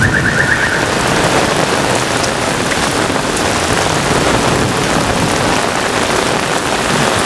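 Heavy rain pouring down in a severe thunderstorm, a loud, steady hiss of downpour. A brief high warbling tone sounds over it in the first second.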